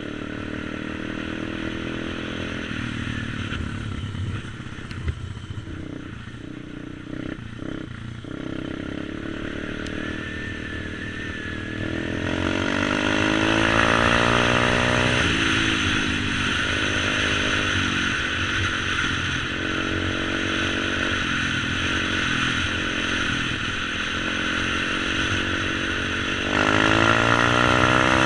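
125cc single-cylinder pit bike engine running, its pitch climbing as it accelerates hard about halfway through and again near the end, louder with each pull.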